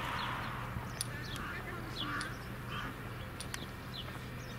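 Birds chirping briefly several times over a steady low hum, with scattered light clicks.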